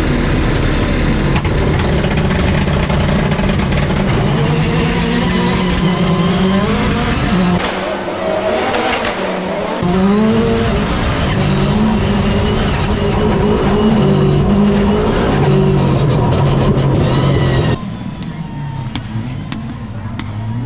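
Subaru Impreza WRX rally car's turbocharged flat-four engine revving hard, its pitch climbing and dropping again and again as it shifts through the gears. About 18 s in the sound cuts to a quieter engine running further off.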